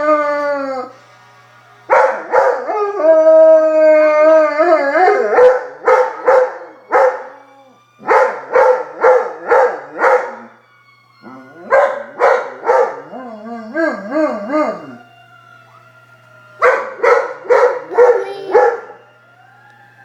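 Black Labrador howling: long wavering howls, then runs of short rhythmic howl-barks about two or three a second, broken by brief pauses.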